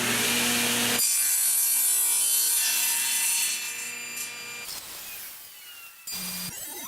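Power saw ripping a strip of reclaimed crate wood, most likely a table saw. The cut ends about a second in, and the blade then keeps whining as it winds down, fading out over a few seconds.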